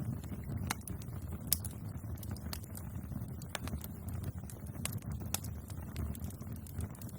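Bonfire burning with a steady low rumble of flames and irregular sharp crackles and pops from the burning wood.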